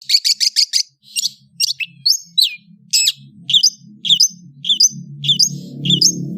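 Long-tailed shrike (cendet) singing: a rapid run of about five sharp notes in the first second, then a steady string of harsh notes with downward slurs, about two a second. Background music underneath grows louder near the end.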